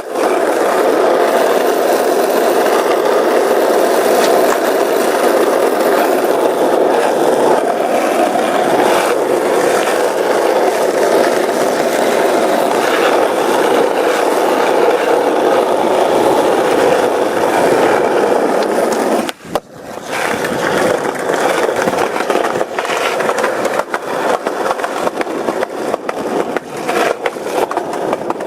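Skateboard wheels rolling steadily over rough pavement, with small clicks from cracks and bumps and a short break about 19 seconds in.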